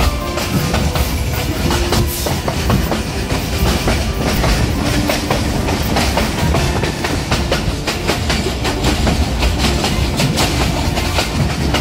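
Passenger train running along the track, heard from on board: a steady low rumble and rushing noise with the irregular clickety-clack of the wheels over rail joints.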